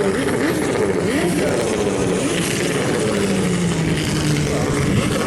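Turbocharged drift car engine revving up and down repeatedly, its pitch rising and falling several times over a rough, crackling exhaust.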